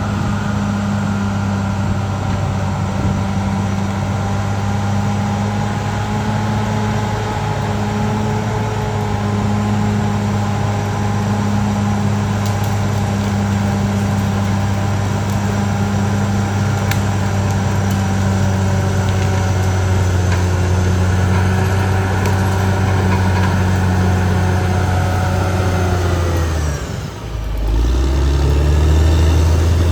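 Caterpillar D6R XL bulldozer's diesel engine running steadily. Near the end its pitch falls sharply and the sound dips briefly, then it settles back to a steady run.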